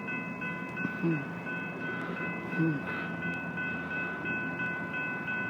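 Railroad crossing warning bell ringing steadily while the crossing is activated, warning of an approaching light rail train.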